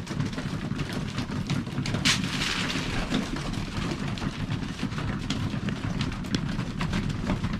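Pigeon feed grain poured out in a hissing, rattling rush about two seconds in, over a steady low rumble of wind on the microphone, with scattered sharp clicks throughout.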